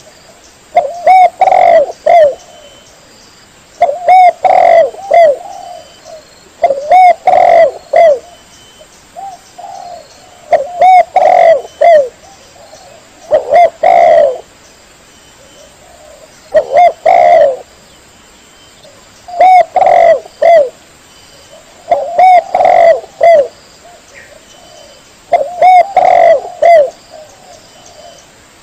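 Spotted dove (tekukur) cooing over and over: a phrase of a few low, mellow coo notes about every three seconds, played loud.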